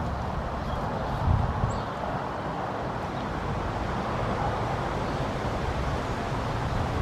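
Steady outdoor background noise with a low rumble, swelling briefly about a second in.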